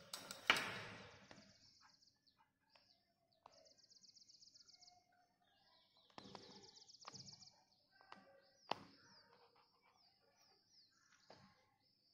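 Faint birds chirping and trilling in quick repeated phrases. A sharp glass clink comes about half a second in, and there are a couple of lighter knocks later on.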